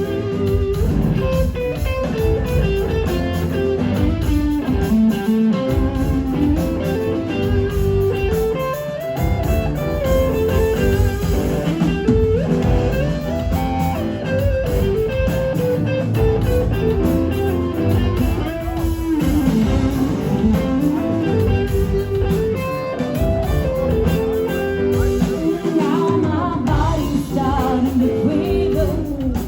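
Live rock band playing, with an electric guitar line over bass and drums.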